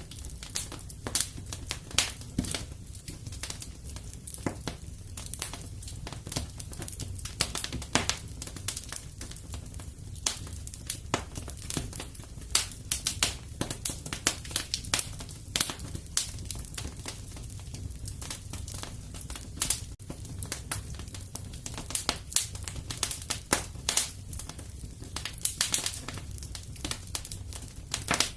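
Fireplace crackling: irregular sharp pops and snaps of burning wood over a steady low rumble.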